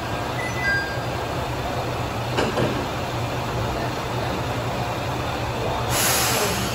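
Diesel railcar standing at the platform, its engine giving a steady low hum. A single knock comes about two and a half seconds in, and near the end a burst of air hiss lasting about a second.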